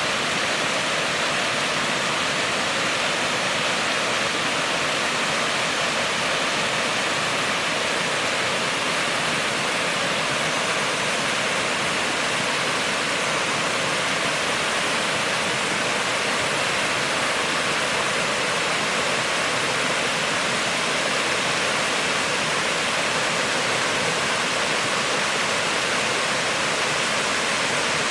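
Steady rush of water from a spring-fed waterfall cascading down a rock slope.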